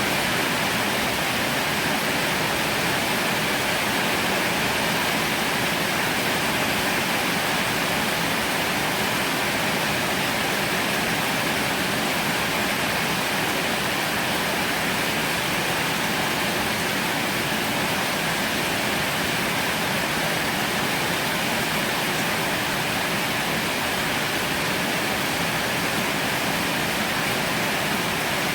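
Heavy rain falling steadily, a constant even hiss with no thunder or breaks.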